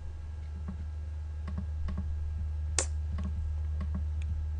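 Scattered light clicks of a computer mouse and keyboard during editing, one sharper click a little under three seconds in, over a steady low electrical hum.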